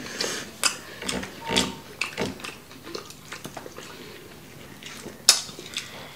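Close-miked wet chewing, biting and lip-smacking of people eating chicken wings, in short irregular smacks, with one sharp click about five seconds in.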